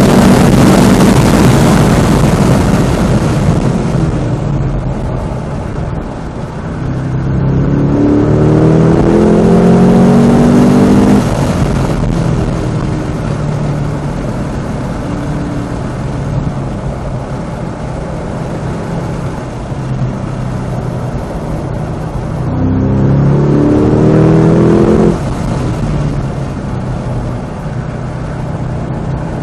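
Cadillac CT5-V Blackwing's supercharged 6.2-litre V8 driven hard on track, rising in pitch under full acceleration twice, about eight and twenty-three seconds in, each pull cutting off suddenly, with steadier engine running between the pulls and loud wind and tyre noise at the start.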